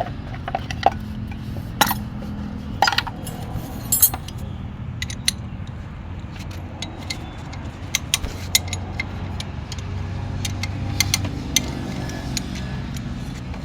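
Scattered sharp metallic clinks and taps of hand tools and engine parts being handled during an engine teardown, over a steady low hum.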